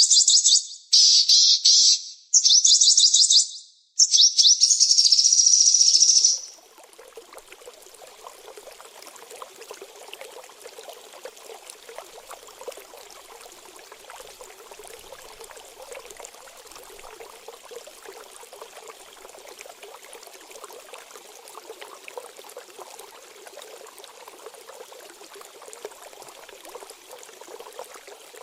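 A small songbird singing four loud bursts of rapid, high-pitched trilling song, then about six seconds in the birdsong stops and steady trickling water takes over, the flowing-water sound used as a calming 'water therapy' for cage birds.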